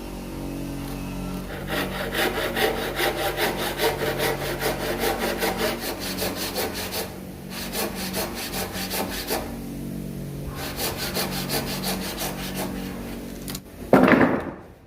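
Hand saw cutting wood in quick, even back-and-forth strokes, in two bouts with a short pause between, over a steady low hum. A single loud thump comes near the end.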